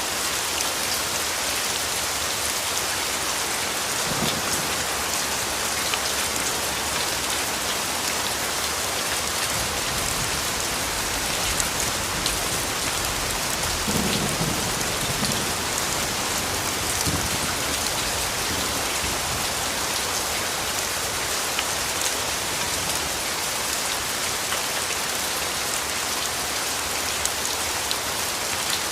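Steady rain falling, with low rumbles of distant thunder about four seconds in and again several times around the middle.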